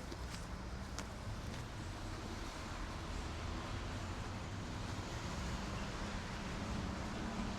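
Steady low rumble and hiss of city traffic ambience on a street at night, with a couple of sharp clicks in the first second.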